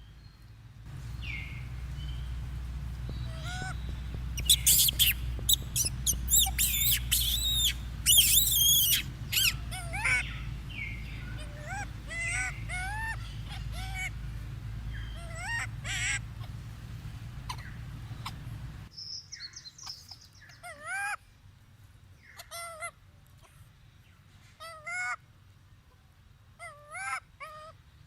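Monkeys squealing and crying in high, wavering, gliding calls, loudest and thickest a few seconds in, over a low rumble that stops suddenly about two-thirds through. After that come fewer, separate wavering cries.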